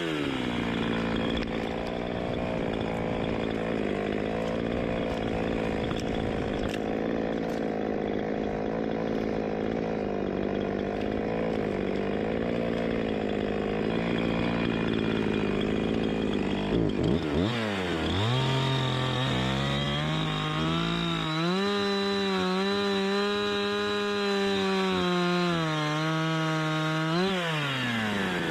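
Chainsaw cutting wood: the engine holds a steady pitch under load for about sixteen seconds. It then drops briefly, revs back up and runs with a wavering pitch before falling back toward idle near the end.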